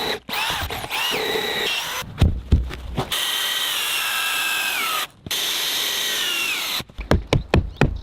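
Power drill driving long structural screws into log timber: the motor whine comes in several runs with short stops, its pitch sagging as the screw bites during a long run in the middle. Near the end, a rapid series of knocks, about five a second.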